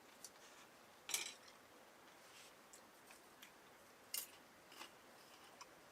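A few short, crisp clicks or snips against a quiet background, the loudest about a second in and another about four seconds in.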